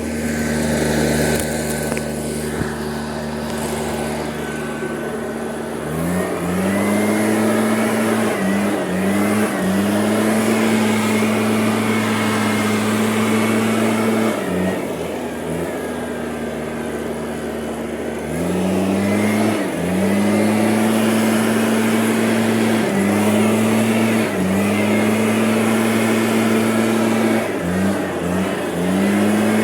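A vehicle engine idling, then revved up and held at higher revs with short dips, easing back to idle and revving up again.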